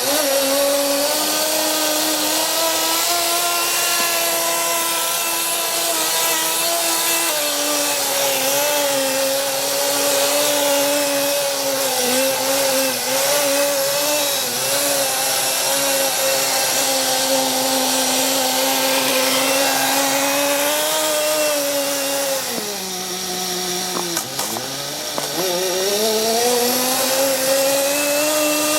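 Small, high-revving nitro engine of a Blizzard Nitro running hard on snow, its pitch wavering slightly. About three-quarters of the way through, the revs drop sharply, dip briefly, then climb back up to full speed.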